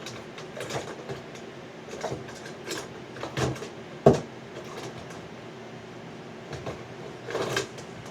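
Scattered small clicks, knocks and scrapes of tools and a circuit board being handled on a workbench, with one sharp click about four seconds in.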